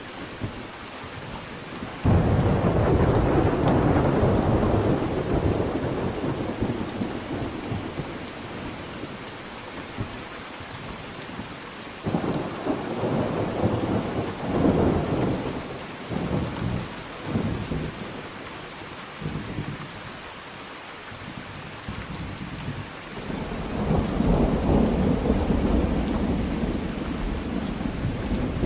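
Steady rain with thunder rolling three times: a sudden crack about two seconds in that rumbles on for several seconds, another abrupt roll a little before halfway that rises and falls in waves, and a long rumble building up near the end.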